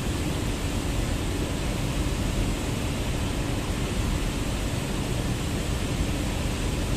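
Steady rushing noise of Daikin VRF outdoor condenser units running, with a faint low hum underneath.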